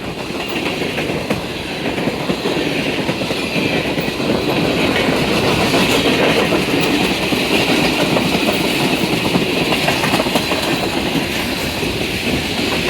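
Freight cars of a long, fast manifest train rolling past, a steady loud rush of wheels on rail with rapid clicking over the rail joints.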